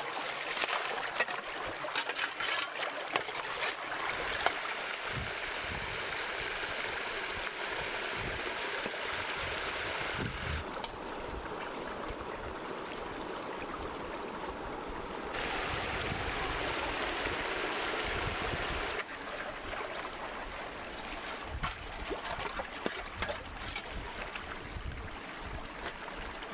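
Steady rushing noise of running water, with scattered clicks in the first few seconds; the sound changes abruptly several times, about 11, 15 and 19 seconds in.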